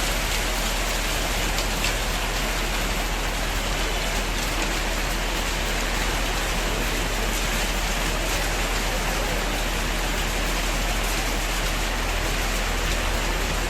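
Steady rain falling on hard surfaces, an even, unbroken hiss.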